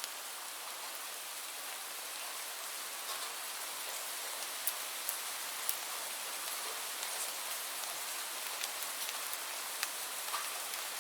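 Steady rainfall, an even hiss of many drops on a surface, with occasional louder single drops tapping close by.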